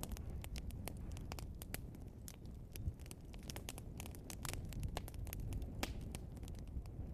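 Log fire burning with a steady low rumble and irregular sharp crackles and pops, one louder snap about three seconds in.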